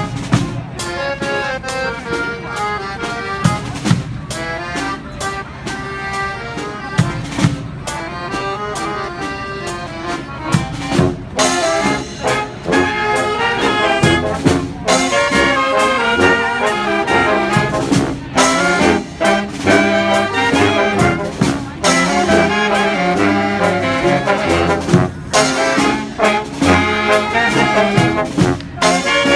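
Live brass street band playing: trumpets, trombones and horns over marching drums, with a regular beat. The full band comes in louder about eleven seconds in.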